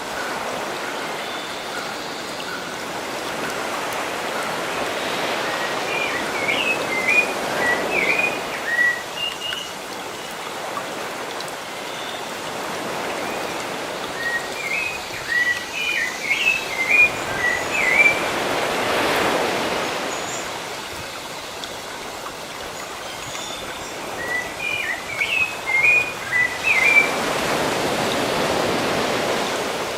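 Sea waves washing in and drawing back, swelling about every ten seconds. A bird sings the same short twittering phrase three times over the surf.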